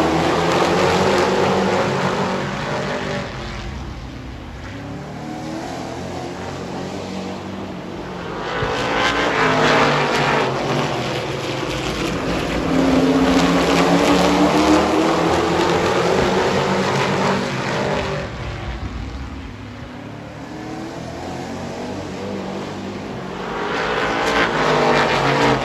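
A field of super trucks racing on a short oval. The engines swell loud as the pack comes past, with the engine pitch rising and falling, then fade as the trucks go round the far side. This happens two or three times.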